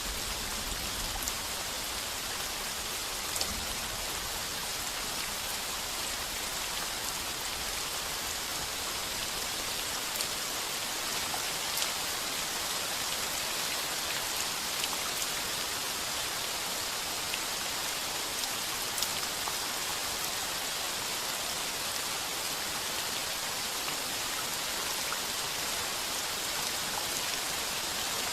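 Heavy, steady rain drumming on a tin roof, a dense hiss with scattered sharper drop ticks. A low rumble of distant thunder dies away in the first second or two.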